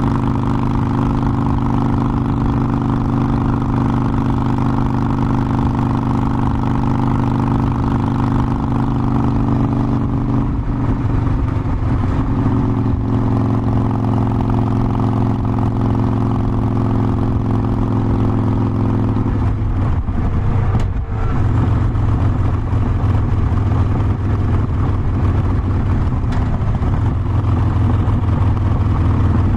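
Harley-Davidson Forty-Eight Sportster's air-cooled 1200 cc V-twin running steadily under way. Its pitch changes about a third of the way in, then again about two-thirds in, with a brief dip as the throttle eases.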